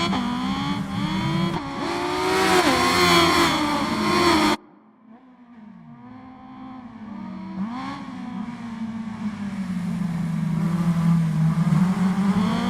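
Motorcycle engine revving, its pitch rising and falling. About four and a half seconds in the sound cuts off suddenly, then an engine sound builds back up gradually and settles into a steady note.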